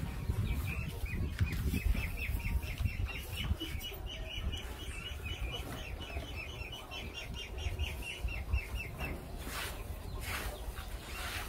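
Birds chirping in a long, quick run of short high notes, over a steady low rumble, with two brief rushes of noise near the end.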